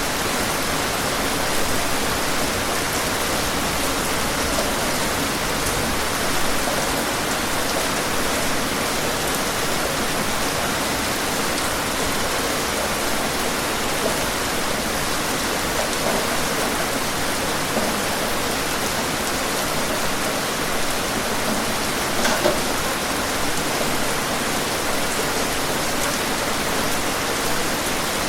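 Steady heavy rain, an even hiss, with a few louder drops or splashes standing out now and then.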